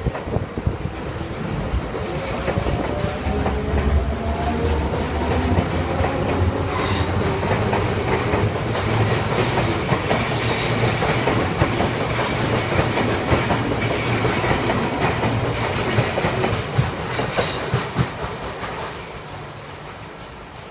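A train passing close by, its wheels clacking over the rail joints, with a whine that falls in pitch over the first few seconds. The train's sound fades away near the end.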